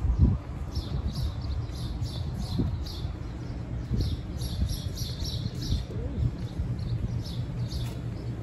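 Small birds chirping over and over, a few short high chirps a second, above a steady low outdoor rumble.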